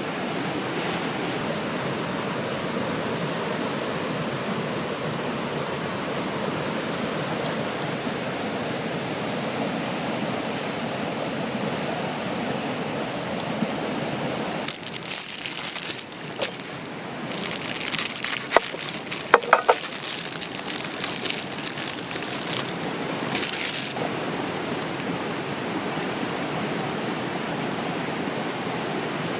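Steady rushing of a river. From about halfway through, the rush thins and dense crackling with a few sharp clicks comes to the fore for several seconds, then the even rushing returns.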